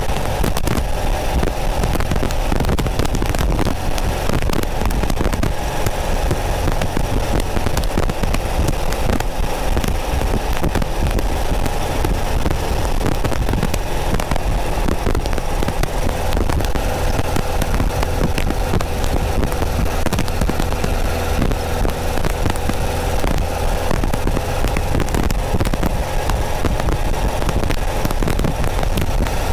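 Porsche 914's 2.0-litre flat-four engine running steadily as the car drives along, overlaid by a constant crackle of static.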